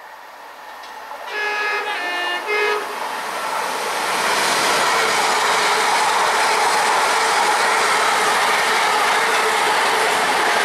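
A ScotRail Class 380 electric multiple unit sounds its two-tone horn about a second in, three short notes alternating in pitch, then the seven-car train rushes past the platform at speed in a loud, steady roar of wheels and air.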